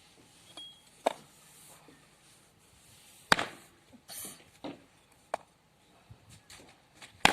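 An axe chopping thin wooden bars: about five sharp chops spaced a second or two apart, the loudest about three seconds in and at the end.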